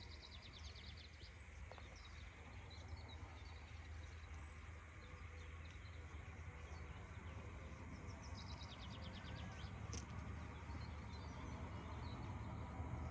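Birds singing in the background, with two fast trills of rapid ticks, one at the start and one about two-thirds through, over a steady low rumble that grows louder toward the end. There is a single sharp click near the end.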